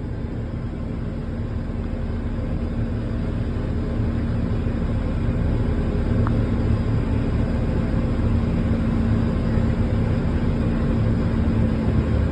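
Jet aircraft engine noise: a steady low rumble with a constant low hum, slowly growing louder.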